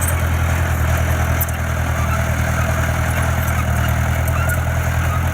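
Diesel engine of heavy construction equipment running steadily, a deep, even drone.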